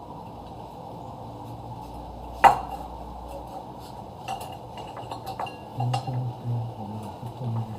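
Kitchen clatter of utensils against dishes: one sharp, ringing clink about two and a half seconds in, then a run of lighter clicks and knocks in the second half.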